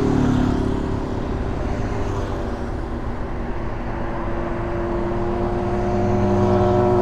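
Motorcycle engine running steadily under way, over wind and road noise. Its level rises over the last couple of seconds as it picks up speed.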